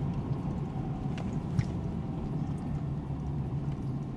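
Steady low rumble of a Ford F-350 pickup's engine and road noise heard from inside the cab while driving slowly, with a few faint clicks.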